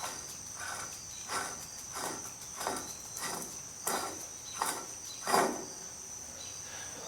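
Light metal clinks and knocks of hub parts being handled and lifted off, about eight of them spread over five seconds and fading out near the end, with a steady high-pitched whine behind them.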